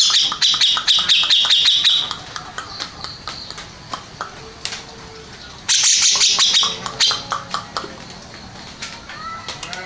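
Grey-cheeked bulbul (cucak jenggot) singing in two loud bursts of rapid, high chattering notes, one at the start and another about six seconds in, with quieter scattered notes between.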